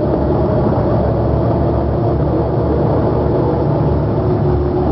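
Truck engines running steadily, a continuous low-pitched engine sound with no break or change.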